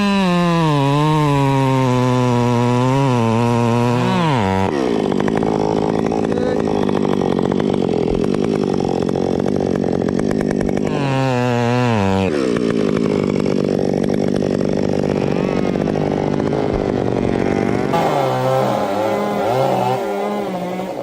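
Two-stroke chainsaw running hard while cutting wood. Its engine note rises and sags repeatedly as the throttle is worked and the chain loads up in the cut.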